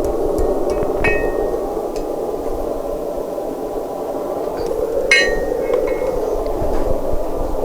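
Light metal-on-metal strikes in blacksmith work on a small steel leaf. There are two clear clinks that ring briefly, one about a second in and a louder one about five seconds in, with a few fainter ticks. A steady rushing noise runs underneath.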